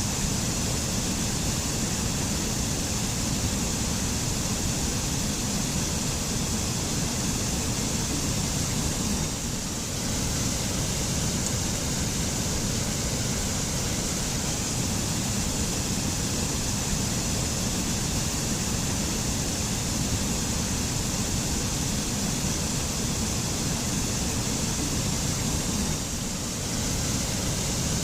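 Mountain waterfall: a steady rush of falling water with a deep rumble and a high hiss, easing slightly for a moment twice, about ten seconds in and near the end.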